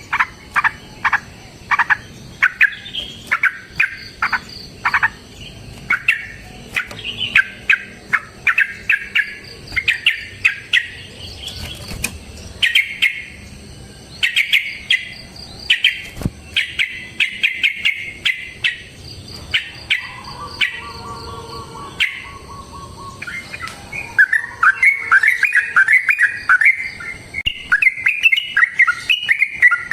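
Yellow-vented bulbul calling in quick series of short, sharp chirping notes. A brief held lower note comes near two-thirds of the way in, then a long, dense run of chattering notes near the end.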